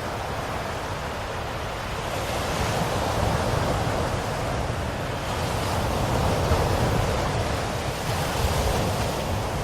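Ocean waves washing onto a shore, a steady rushing surf that swells and eases slowly, cresting about a third of the way in and again past the middle.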